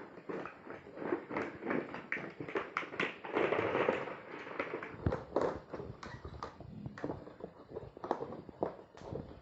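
Irregular clicks and taps from a toy helicopter being handled, with a short burst of rustling about three and a half seconds in.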